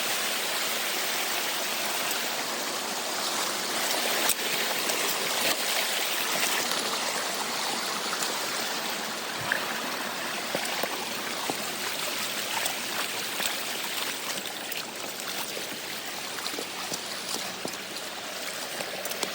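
Creek water running steadily, an even rushing, with a few faint clicks.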